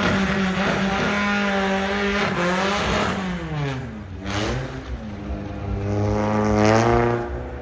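Sports car engine driven hard at high revs. It holds steady, drops in pitch about three to four seconds in, then revs back up to a peak before lifting off near the end.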